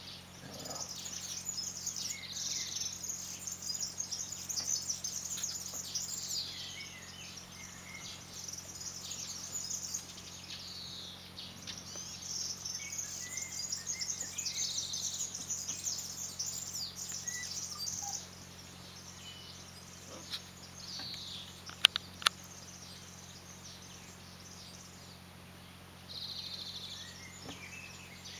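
Birds chirping and trilling on and off in the background. Two sharp clicks come close together a little past the middle.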